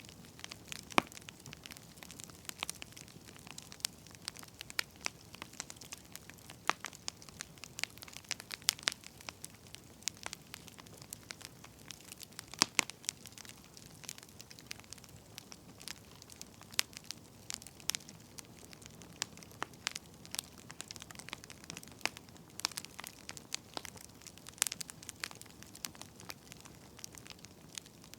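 Wood fire crackling: irregular sharp pops and snaps, several a second at times, over a soft steady hiss.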